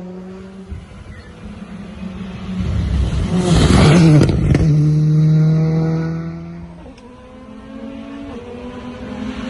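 Rally car passing at speed on a special stage. The engine grows louder, its pitch drops as it goes by about four seconds in, and it holds a steady note before fading away. Another car's engine is coming closer near the end.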